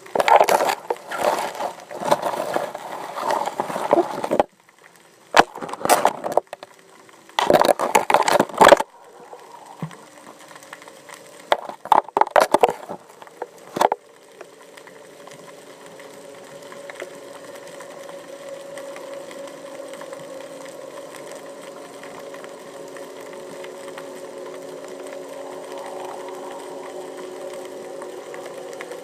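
Bursts of knocking and scraping across the first half, then a steady motor hum with several held low tones that slowly grows louder, typical of a boat engine heard underwater.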